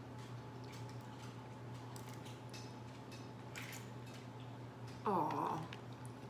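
Faint scattered clicks and cracks of shellfish shells being picked apart and handled while eating, over a steady low hum. A short voiced "aww" comes near the end.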